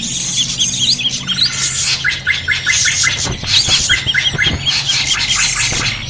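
A noisy chorus of small birds from a bird-lure recording: several birds calling at once in quick runs of short, repeated chirps and whistled notes, over a low steady hum.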